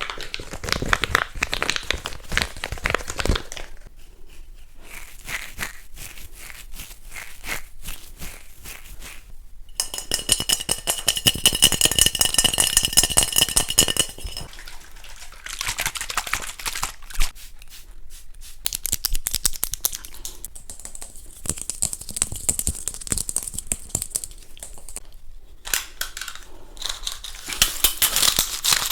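Fast ASMR triggers close to the microphone: rapid tapping, scratching and crinkling on small objects. A steady high tone sounds for about four seconds in the middle.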